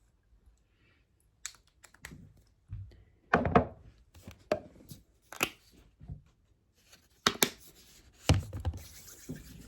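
A string of irregular knocks, clicks and dull thumps, like objects being handled and set down, with the loudest clusters about three and a half seconds in and again near the end.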